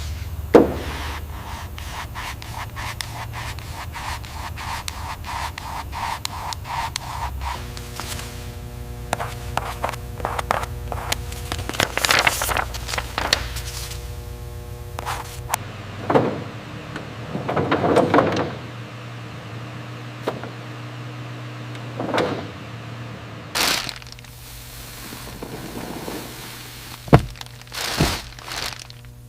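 A run of knocks, clunks and scrapes over a steady low hum, with several louder bangs and rushing noises in the second half.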